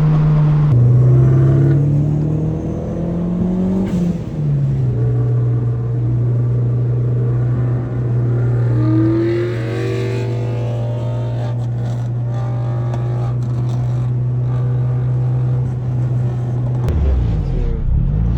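Car engine pulling up through a gear, an upshift about four seconds in, then a steady drone at constant speed; near the end the engine note wavers and changes.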